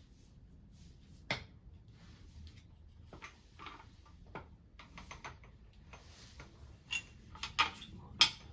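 Scattered light clicks and knocks of small hard objects being handled. There is a single one about a second in, softer taps in the middle, and the sharpest three clustered near the end.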